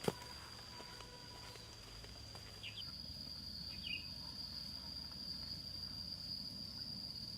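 Steady high-pitched drone of insects, growing louder about three seconds in. A single sharp knock right at the start, and two short chirps a little after halfway.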